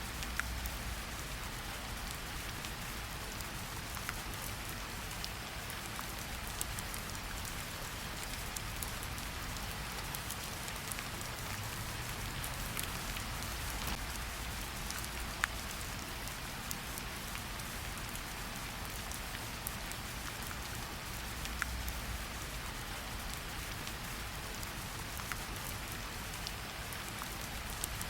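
Steady rain falling in a forest, an even hiss with many individual drops ticking sharply on leaves and surfaces, one louder drop hitting about fifteen seconds in.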